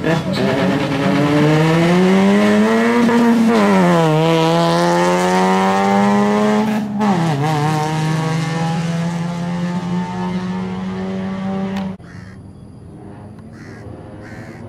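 Honda Jazz GE rally car's four-cylinder engine accelerating hard away from the start: revs climb for about three seconds, drop at a gear change, climb again and drop at another shift about seven seconds in, then hold steady. Suddenly much quieter about twelve seconds in, where the car is heard far off.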